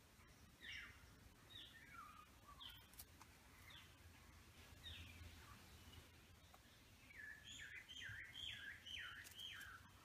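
A bird calling faintly: short notes that each slide downward, about one a second at first, then a quicker run of six near the end.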